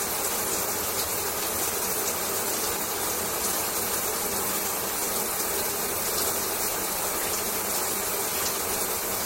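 Shower running: a steady hiss of water spray with a fine, even spatter of droplets.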